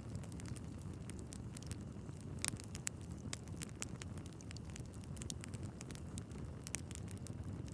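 Wood fire burning in a fireplace: a steady low rumble of flames with scattered sharp crackles and pops from the logs, two louder pops about two and a half seconds in and near the end.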